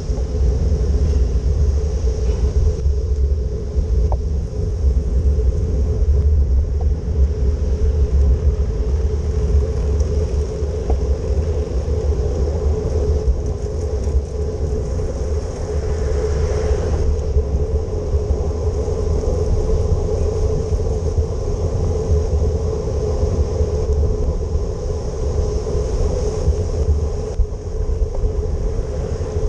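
Steady wind rumble on the microphone while cycling, over a continuous hiss and hum of tyres on a wet road. A brief swell of hiss comes about 16 seconds in.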